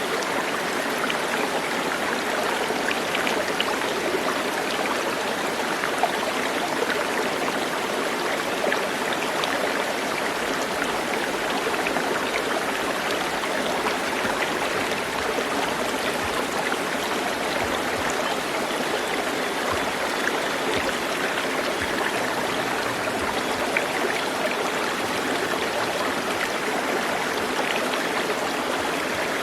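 Steady rush and babble of flowing water, like a small stream, even throughout.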